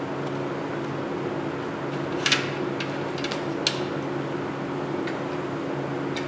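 Steady electrical hum of a welding machine, its low buzz dropping out briefly twice. A few sharp clicks and ticks cut across it, the loudest about two seconds in.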